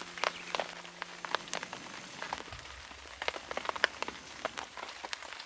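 Rain falling, with many irregular sharp drip ticks over a steady hiss.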